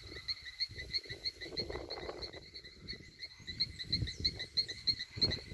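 A small animal calling steadily in short high pips, about three a second, over a patchy low rumbling background.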